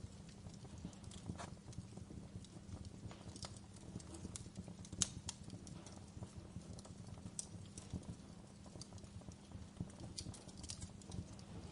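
Wood fire crackling in a fireplace: irregular snaps and pops over a steady low rumble, with one louder pop about five seconds in.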